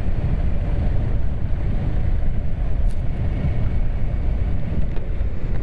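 Steady low rumble of wind and riding noise on a motorcycle rider's in-helmet microphone, with no clear engine note standing out.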